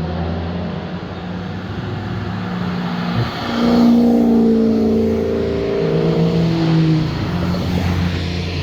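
A car's exhaust as it drives past: a low engine note at first, then a louder, higher engine note from about three and a half seconds in that sinks slightly in pitch as the car goes by.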